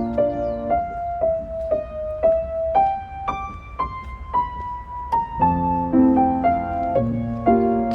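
Background piano music: a slow, gentle melody, with chords at the start and end and single held notes in between.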